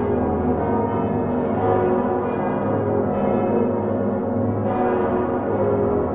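Large bronze swinging church bells of the Utrecht Dom tower, including Geert van Wou's 1505 bells, ringing together in a full peal. Strokes from many bells overlap into a dense, continuous, hum-laden clangour.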